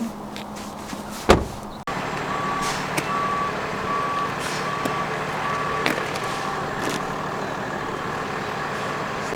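Truck reversing: its back-up alarm gives about six evenly spaced beeps over a steady engine hum. A single sharp thump comes a little over a second in.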